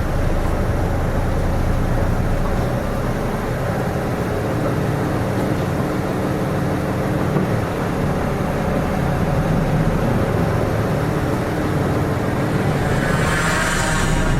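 A Nissan Diesel KK-RM252GSN medium-size bus heard from on board, its diesel engine running steadily at a low, even pitch. A brief hiss rises near the end.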